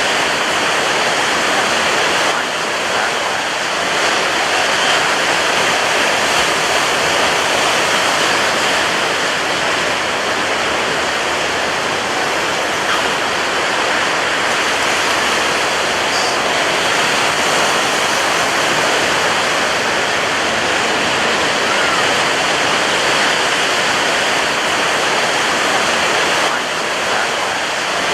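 Rough surf crashing on a beach: a dense, steady rush of breaking waves and foam with only slight swells and dips in level.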